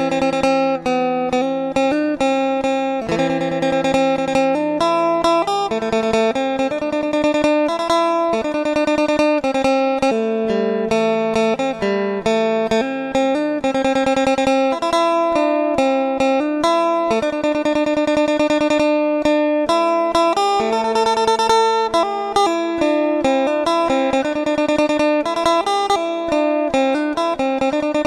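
Background music: acoustic guitar picking a steady run of notes.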